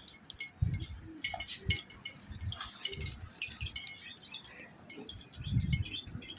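Scattered light metallic tinkling, with a few dull low thumps.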